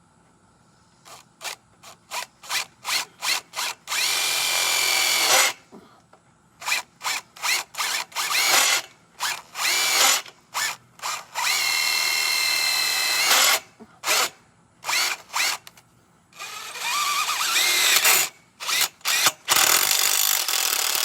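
Power drill worked in many short trigger pulses and several longer runs of a second or two. Its motor whine rises as it spins up on each run.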